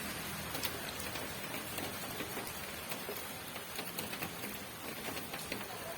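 Steady rain falling, an even hiss dotted with many separate drop ticks on a hard surface.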